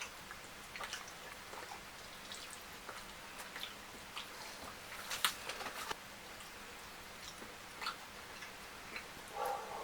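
Close-up eating sounds: scattered wet chewing and lip-smacking clicks, the loudest about five seconds in. A short pitched sound comes near the end.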